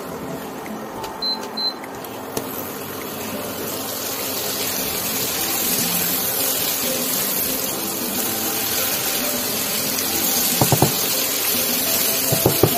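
Potatoes and spices sizzling in hot oil in an aluminium kadai while being stirred with a spatula, a steady frying hiss that swells slightly. A few sharp knocks of the spatula against the pan near the end.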